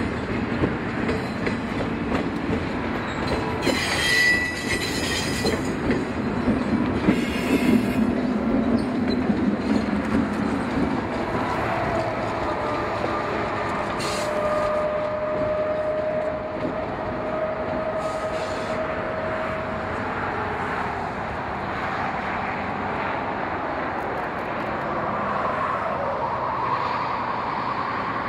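Train rolling past, its wheels clattering over the rails with flange squeal. A steady squealing tone is held for several seconds in the middle.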